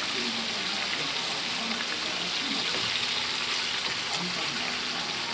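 Marinated pork pieces sizzling steadily in hot oil in a wok as they brown.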